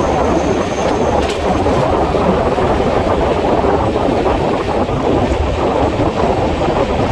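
Telangana Express passenger train running at speed: a steady, loud rumble and rattle of wheels on rails, sped up to twice normal speed.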